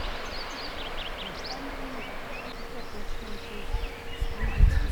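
Small birds chirping and calling in short quick notes over a steady outdoor hiss, with a low rumble near the end.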